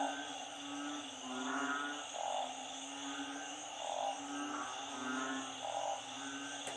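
A chorus of frogs after heavy rain: narrow-mouthed frogs and small frogs calling over one another. Low droning notes and pulsed croaks repeat every second or so, over a steady high hiss.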